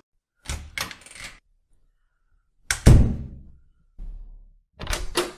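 A door opening and closing: a few sharp latch and handle clicks, then a loud thud near the middle, and more clicks near the end.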